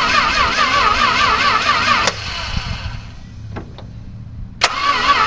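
1964 Chrysler 361 wedge V8 running at idle just after a cold start, its valve covers off and rocker arms exposed. A warbling whine rides over the low running sound; it drops away after a sharp click about two seconds in and returns with another click near the end.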